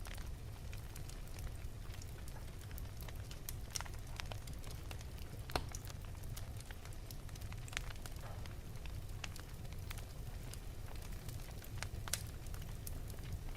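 Wood fire in an open fireplace crackling: irregular sharp pops and snaps, the loudest about five and a half seconds in and another near twelve seconds, over a steady low rumble of the flames.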